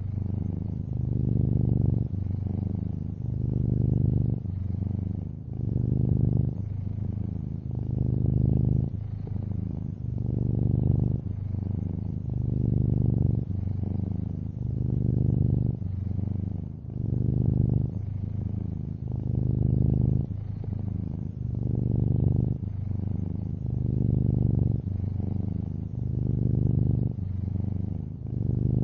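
Long-haired orange tabby cat purring steadily, a low rumble that swells and eases with each breath, about every two seconds.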